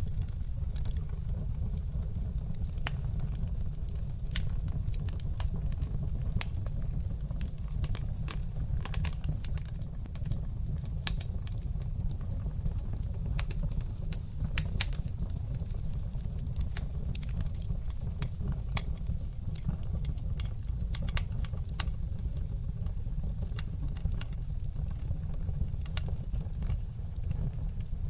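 Fire burning in a fireplace: a steady low rumble of flames with frequent irregular sharp crackles and pops throughout.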